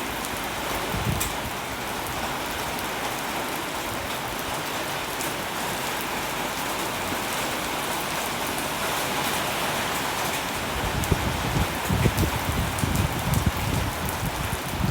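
Steady rain falling, an even hiss of drops on surfaces. About two-thirds of the way through, irregular low thumps and rumbles join in.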